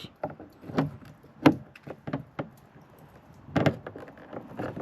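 Short plastic clicks and knocks as a door light lens is pushed and worked into its opening in a truck door; it is not seating. The loudest knocks come about a second and a half in and again about three and a half seconds in.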